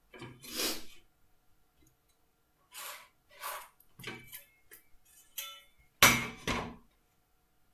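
Pencil being drawn along a try square on a wooden board: several short scratchy strokes, then a louder knock about six seconds in as the square or board is handled.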